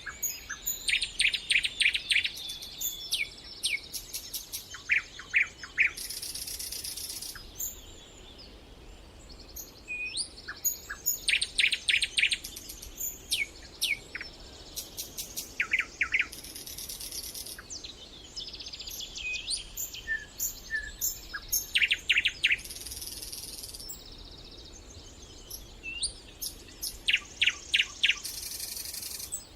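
Songbirds singing: short phrases of rapid repeated notes come every few seconds, with a high hissing buzz recurring in the pauses between them.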